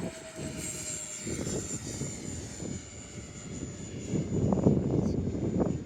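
Radio-controlled model airplane's motor giving a thin high whine that sinks slightly in pitch, over an uneven low rumble.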